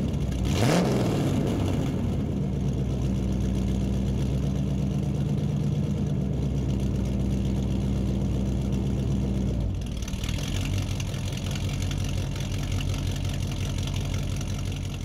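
Car engine revving up just after the start, then running steadily. About ten seconds in, the steady drone gives way to a noisier engine sound that fades out near the end.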